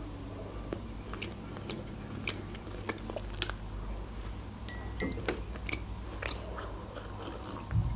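Close-up chewing of a soft Barni sponge cake, with small scattered mouth clicks and wet smacks. A dull low thump comes near the end.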